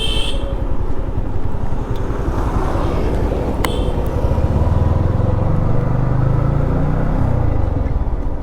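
Modified Yamaha MT-15's 155 cc single-cylinder engine running at riding speed with a fast, even low pulse. A deeper steady drone swells in the middle and fades again, and short high chirps sound right at the start and about three and a half seconds in.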